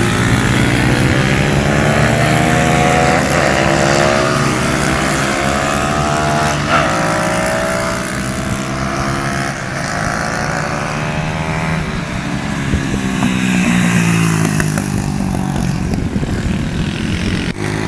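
Pit bike engines revving hard, the pitch climbing and dropping again and again as the bikes accelerate, change gear and slow.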